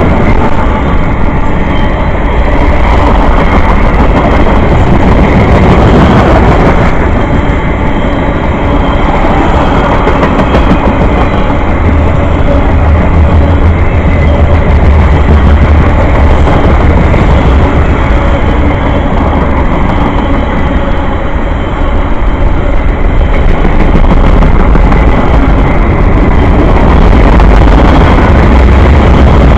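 A train passing close by on the main line: a loud, steady rumble of wheels on rail.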